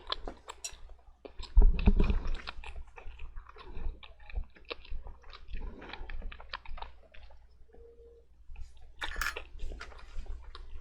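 Close-up eating of jajangmyeon (black bean noodles): chewing with many small wet clicks, and a louder low thump about a second and a half in.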